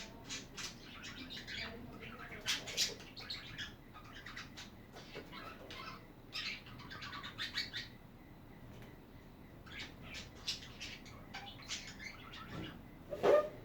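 Budgerigars chattering: clusters of short chirps and warbles, with a louder burst near the end.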